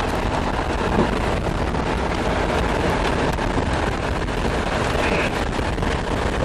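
Steady road and wind noise of a car driving at speed, with a rushing noise strongest in the low end.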